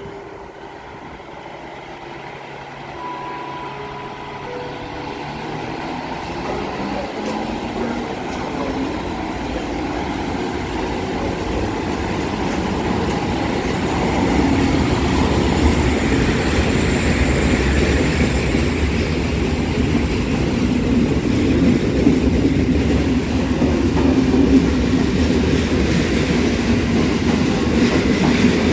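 PKP Intercity SU4210 diesel locomotive hauling passenger coaches, growing steadily louder as it approaches and passes. The coaches then roll by with rumbling and wheel clatter over the rail joints.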